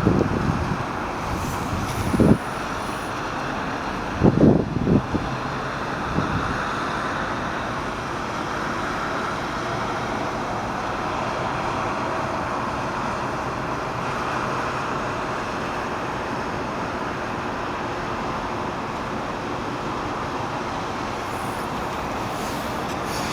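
Steady, even engine noise from distant vehicles, with two brief wind buffets on the microphone in the first five seconds.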